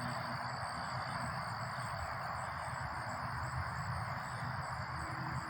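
Steady hum of distant highway traffic heard through woods, with insects trilling in a constant high drone.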